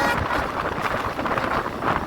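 Passenger train running along the track: a steady rumble and rush of noise, with wind buffeting the microphone.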